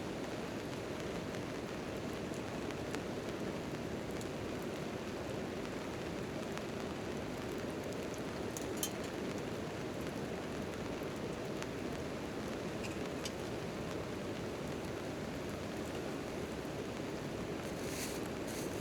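Steady rain falling on a tent tarp, an even noise heaviest in the low middle. There are a few sharp ticks over it, one about halfway through and a small cluster near the end.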